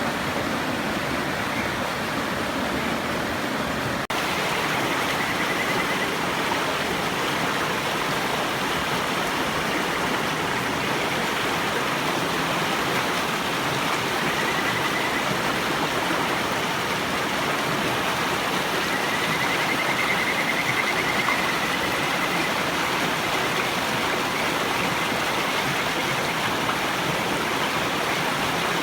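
Mountain river rushing steadily, with kajika frogs giving faint, warbling, bird-like trills over the water several times.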